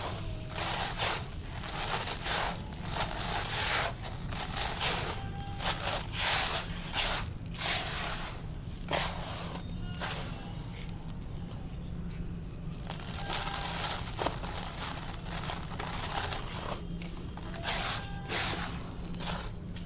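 Dry, dusty black concrete being crumbled and crushed, a run of gritty crunches and crackles with a quieter lull about halfway through.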